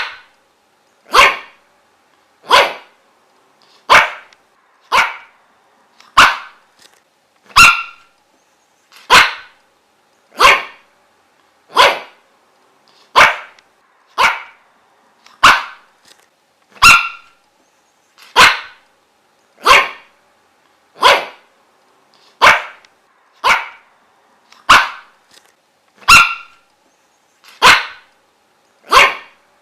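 A dog barking single short, sharp barks at a steady, even pace, about three barks every four seconds, with quiet gaps between them.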